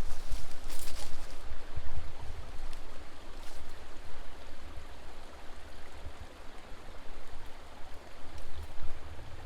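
Mountain stream water running underground beneath the rocks, heard from below as a steady rushing with a low rumble.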